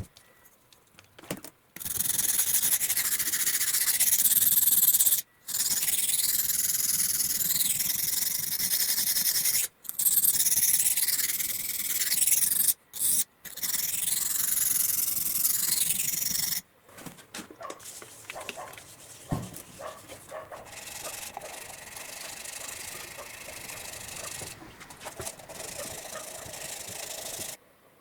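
Rough rubbing and scraping in several short segments with abrupt cuts between them. It is loud for the first half, then quieter with scattered small clicks from about 17 seconds in.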